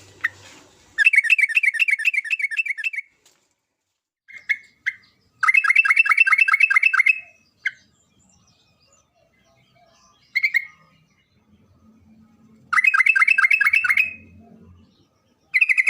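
Yellow-vented bulbul (trucukan) giving rapid chattering trills of about ten notes a second. There are three bursts of roughly two seconds each, with short single calls between them and a brief burst near the end.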